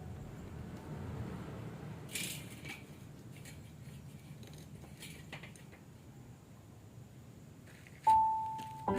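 Faint low hum with a few light clicks and rustles. About a second before the end, a single ringing piano-like note sounds and fades as background music comes back in.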